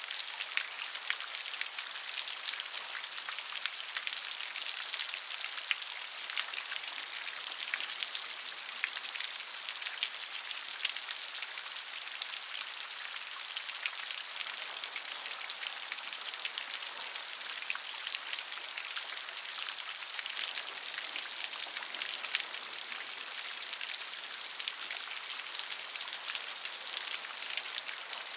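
Steady rain falling, a continuous hiss dense with the fine patter of individual drops striking a surface.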